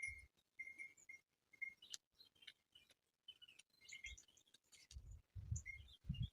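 Faint bird chirps: short high notes repeated at irregular intervals, with a few soft low thumps near the end.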